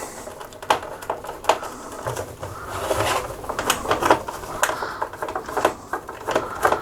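Screwdriver undoing screws from deep recessed holes in a plastic laminator casing: irregular small clicks and ticks, with a rougher scraping joining in about halfway through.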